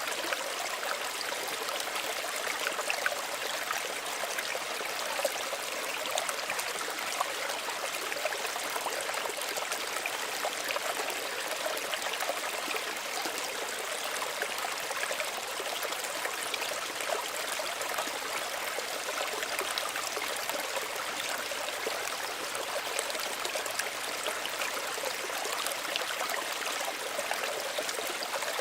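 Small stream running steadily over stones, a continuous babble and trickle of water with many small splashes.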